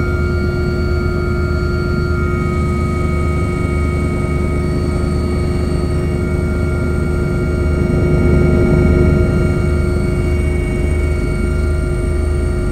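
Helicopter running steadily on final approach, heard from on board: a low rotor beat under several steady turbine whine tones. It swells briefly about two-thirds of the way through.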